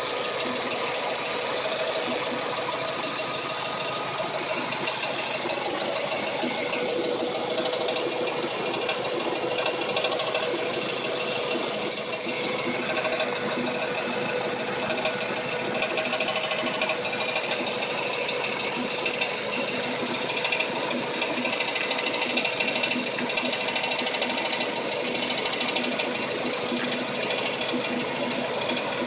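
2004 Audi A4 engine running with a fast, steady metallic rattle, which the owner doesn't think comes from the catalytic converter.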